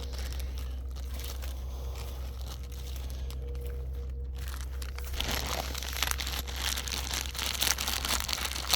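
Footsteps crunching and crackling through dry leaf litter, growing busy about five seconds in, over a steady low rumble.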